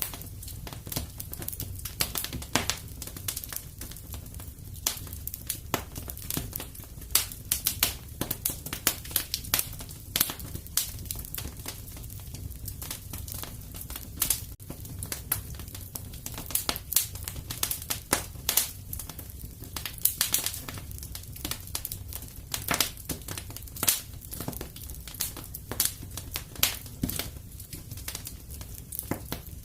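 Wood fire burning in a fireplace: irregular crackles and pops, some sharp and loud, over a steady low rumble of the flames.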